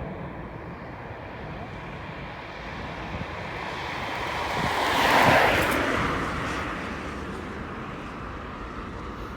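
Jet airliner passing close by: a rushing engine noise that swells to a peak about five seconds in and then fades away.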